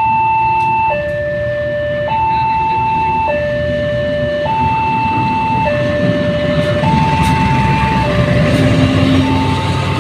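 Railway level-crossing warning alarm sounding a steady alternating two-tone signal, high and low, each tone held just over a second. A low rumble from an approaching train builds under it in the second half.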